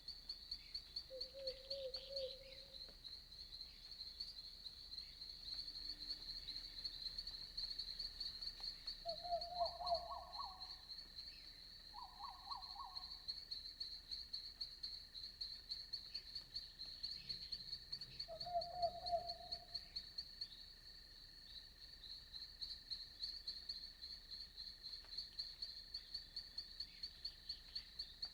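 Night insect chorus, a steady fast-pulsing high trill, with frogs giving four short, lower trilled calls scattered through it.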